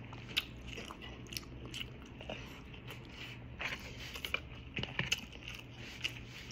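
Close-up mouth sounds of a person eating: irregular wet clicks, small crunches and chewing, over a steady low hum.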